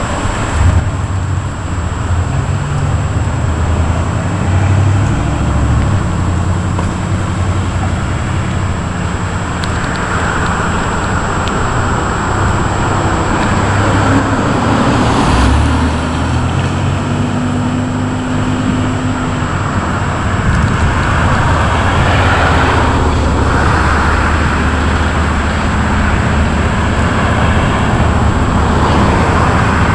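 Steady low rumble of road traffic, with several vehicles swelling past as whooshes, one with a steady engine hum.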